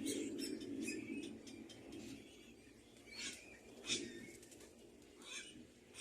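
Birds at a nest: a few short, sharp chirps or wing flutters, the loudest about four seconds in, with faint high chirps between, over a low background sound that fades away in the first two seconds.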